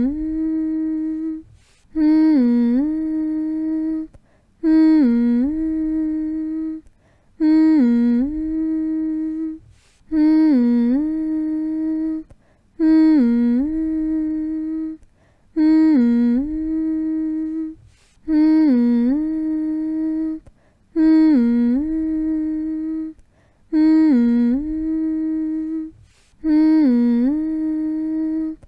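A person humming one long low note over and over, about every two and a half seconds with a short break between. Each hum dips in pitch just after it starts, comes back up and holds steady for about two seconds.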